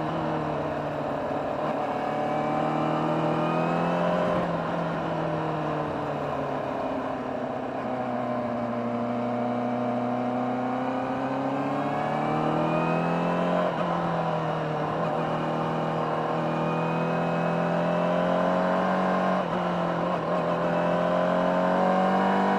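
Honda CBR600RR inline-four motorcycle engine on its stock exhaust, heard from on board under way: the engine note rises and falls with the throttle, with brief breaks about four, fourteen and nineteen seconds in.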